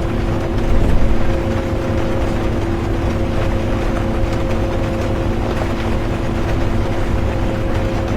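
Bus interior while driving: steady engine and road rumble with a constant drivetrain hum, under an even hiss of rain. A brief swell in the rumble about a second in.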